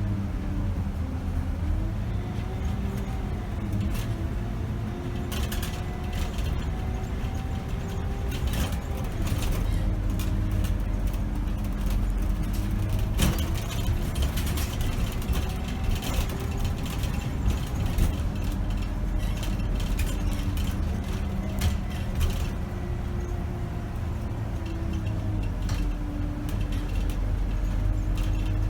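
Scania K270 city bus's nine-litre five-cylinder diesel heard from the driver's position, running under way, its pitch rising as it pulls and falling back several times as the automatic gearbox shifts and the bus slows. Short rattles and clicks from the bus body and fittings run over the engine rumble.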